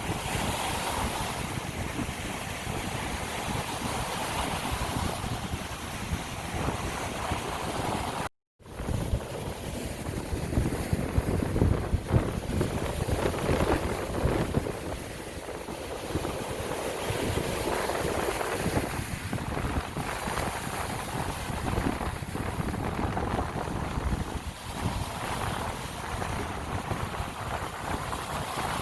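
Lake Michigan waves washing on the shore, with wind buffeting the microphone, swelling and ebbing. The sound cuts out for a moment about eight seconds in.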